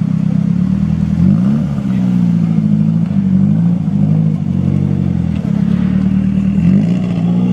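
Car engine running at low revs, its note climbing briefly about a second in and again near the end as it is revved.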